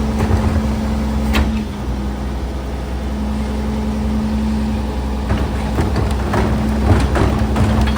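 Garbage truck running with a steady engine hum and a steady tone that briefly drops out about two seconds in. Sharp clanks come once early on and several times in the last few seconds.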